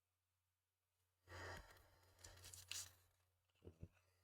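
Near silence: a faint exhale of breath about a second in, a soft rustle, and two small ticks near the end.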